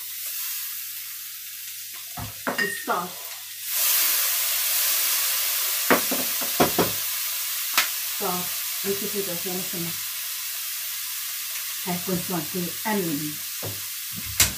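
Chopped chicken and chilli paste sizzling in a wok on a gas burner, the sizzle growing louder about four seconds in. A few sharp clicks of a utensil against the wok are heard.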